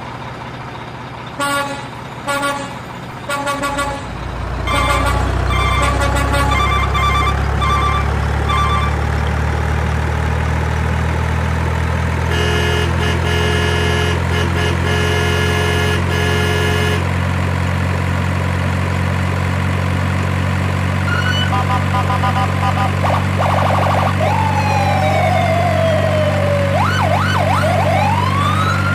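A steady low engine drone sets in about four seconds in, with series of short electronic beeps over it early on. In the last several seconds a siren wails, rising and falling over and over.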